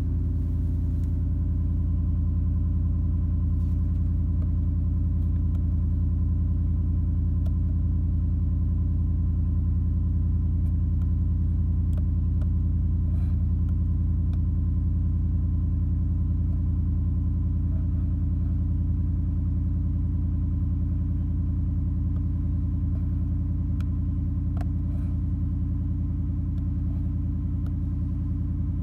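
2019 Ford F-150's 5.0 L Coyote V8 idling steadily through an MBRP aftermarket exhaust while warming up after a cold start, a low, even exhaust note.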